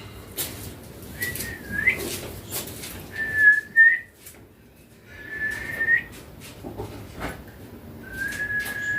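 Indian ringneck parakeet whistling: four steady, single-pitch whistles, each under a second long and spaced a couple of seconds apart, with scattered clicks between them.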